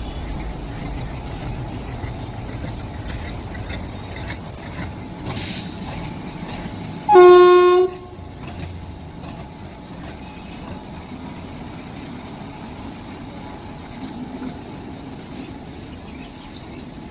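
Train running with a steady rumble, and one short blast of the locomotive horn about seven seconds in, lasting under a second.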